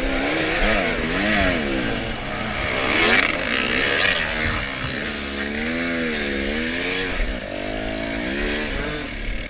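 Dirt bike engine revving up and down over and over, its pitch rising and falling in quick swings, as the rider fights for traction on a slippery, rocky uphill.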